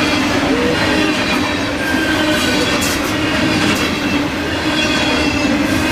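Freight cars of a grain train rolling past at close range: a loud, steady rumble and clatter of steel wheels on rail, with a steady squealing tone from the wheels over it.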